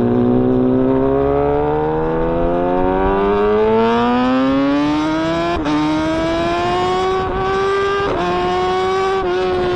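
Kawasaki inline-four sport motorcycle engine accelerating under a rider: the revs climb steadily for about five seconds, then two quick upshifts, about halfway and a couple of seconds later, each drop the pitch before it climbs again.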